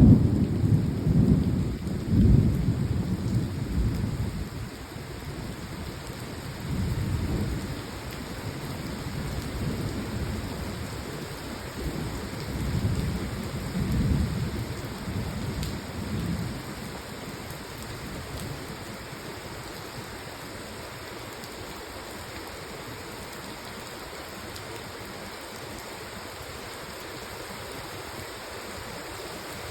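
Heavy rain falling with a steady hiss, with several low rumbles in the first half that die away after about 16 seconds.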